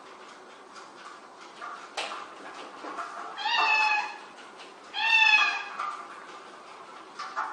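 A domestic cat meowing twice, two drawn-out calls about a second apart that each slide slightly down in pitch.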